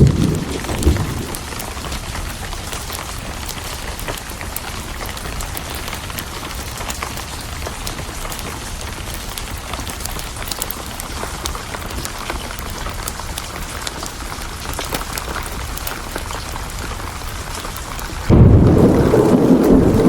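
Steady heavy rain with scattered sharp clicks. A thunder rumble dies away in the first second, and a new loud low thunder rumble breaks in suddenly about 18 seconds in.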